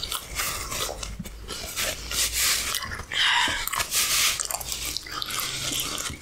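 Close-miked eating sounds: a person biting and chewing food, with irregular wet mouth noises and a few louder bites around the middle.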